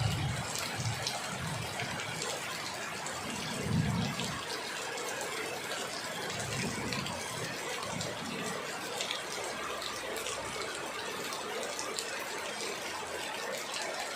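Heavy rain falling steadily: an even hiss dotted with the patter of drops, with low rumbles coming and going beneath it, the strongest about four seconds in.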